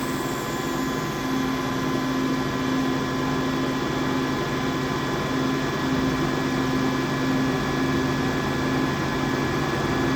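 1972 Cincinnati Milacron Model R-55 universal grinder running through its grind cycle: wheel motor, hydraulic pump and coolant pump humming steadily with several constant whines, while the wheel grinds and the table traverses between the ends of its stroke. A low hum pulses at a slow, even rate underneath.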